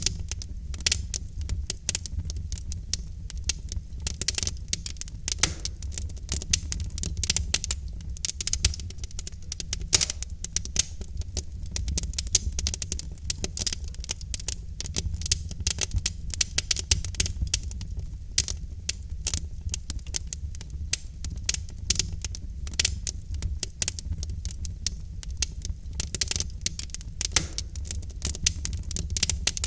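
Wood logs burning in a fireplace, crackling with many irregular small pops and snaps over a steady low rumble of the fire.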